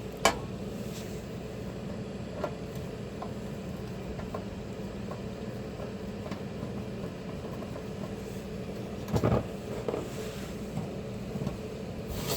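Small clicks and light clatter of a screwdriver backing a screw out of glove-box parts, with a sharp click just after the start and a louder clatter about nine seconds in, over a steady background hum.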